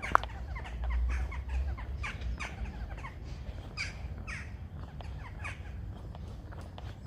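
Birds calling in a run of short, falling cries over a low street rumble, with one sharp click right at the start.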